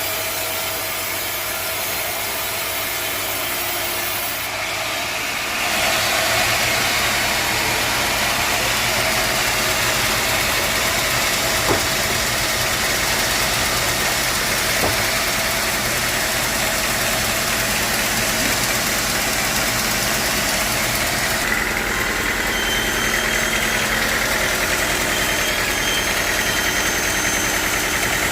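Sawmill machinery running steadily, a motor hum under a dense noise. It grows louder and brighter about six seconds in.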